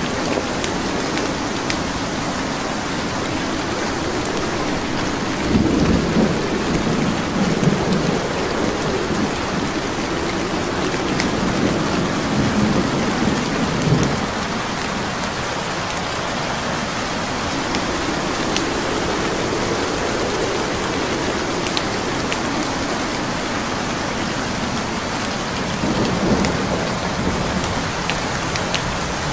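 Steady rain with a wood fire crackling, small sharp pops scattered through it. Low rumbles swell up several times.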